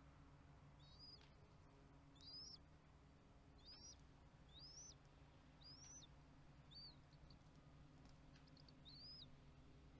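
A bird giving faint, short, high chirps, each rising then dropping, repeated about once a second, over a faint low steady hum.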